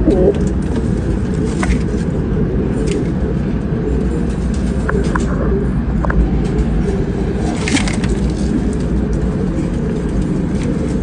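Domestic pigeons cooing softly now and then over a steady low rumble, with a few short clicks.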